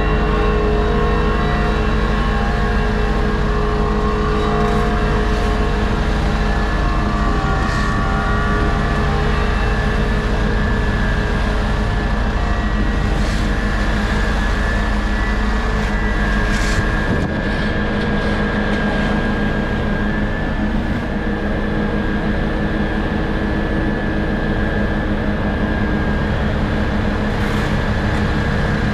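Engines of road-paving machinery and vehicles running steadily, a deep rumble with a steady hum; the deepest part of the rumble drops away about seventeen seconds in.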